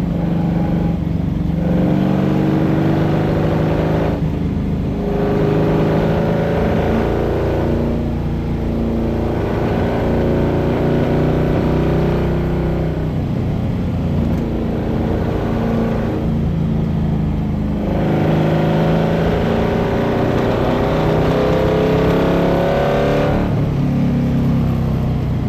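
Iso Grifo's V8 engine under hard acceleration, heard from inside the car. The revs climb and fall away about six times.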